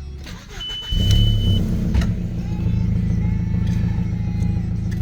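VW Passat B5 2.0 AZM four-cylinder petrol engine starting up: it catches about a second in, flares briefly, then settles into a steady idle. A high steady tone sounds for about a second as it catches.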